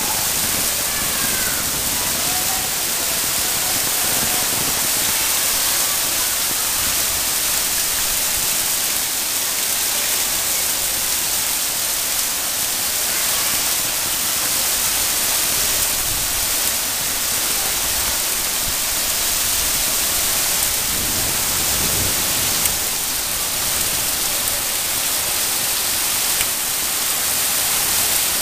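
Heavy rain falling, a steady, even hiss throughout.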